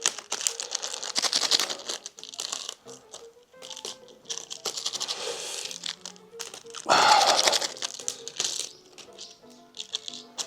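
A wood fire crackling and popping in a dense run of small sharp cracks, with a louder rushing burst about seven seconds in. Background music plays under it.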